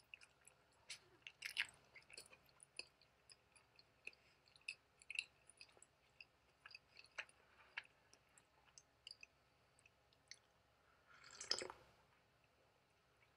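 Faint, close-up chewing of a soft egg salad sandwich: irregular small moist clicks of the mouth working soft bread and egg, with one louder, longer rustling sound about eleven seconds in.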